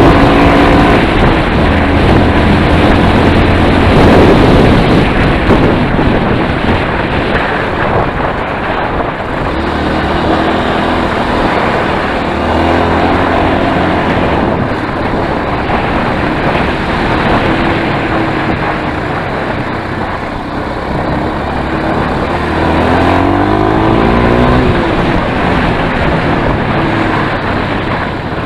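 Enduro motorcycle engine running under way, its pitch climbing with revs a few times, over a steady rushing noise.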